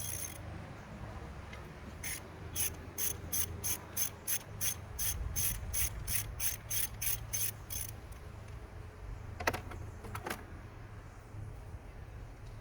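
Ratchet wrench clicking in a steady run of about three clicks a second for some six seconds, then two single clicks, as a spark plug is worked loose or tightened.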